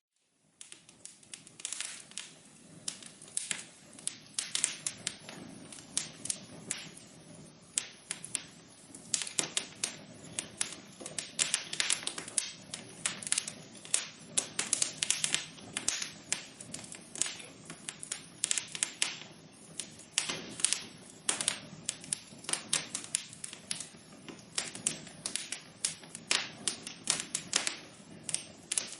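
Wood fire crackling, with frequent irregular sharp pops and snaps over a soft steady hiss. It fades in from near quiet at the very start.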